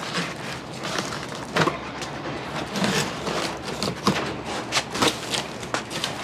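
A cardboard box holding a floor jack being opened and its contents pulled about: irregular rustling and scraping with scattered knocks and thumps.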